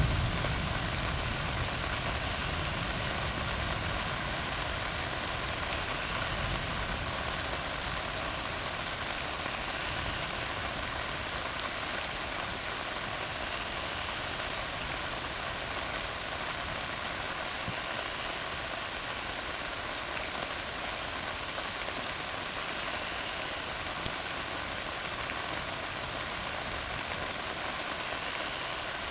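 Steady rain falling on a tar road, an even hiss of drops striking the wet surface. The low rumble of a thunderclap dies away in the first second or so.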